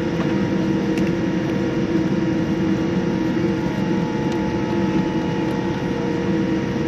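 Steady cabin noise inside a Boeing 787-9 airliner: an even drone from the engines and air system, with a few constant hums and no change in pitch or loudness.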